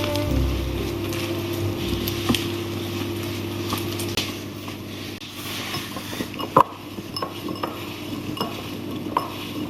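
Kitchen utensil stirring and clinking against a bowl during baking prep, a scatter of light taps with one louder knock past the middle, over a steady low hum.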